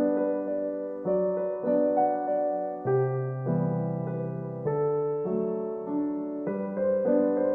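Background piano music: a gentle solo piano piece with slow notes and chords struck about every half second.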